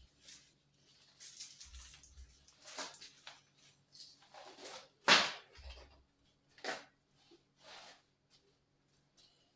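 Groceries and their packaging being handled and set down: irregular rustling and knocks, the loudest a sharp knock about five seconds in.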